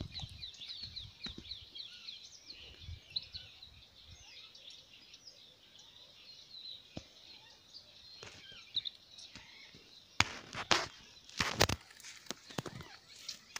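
Small birds chirping in a quick run of short, high notes during the first few seconds, faint behind the open-air background. A few sharp knocks come near the end.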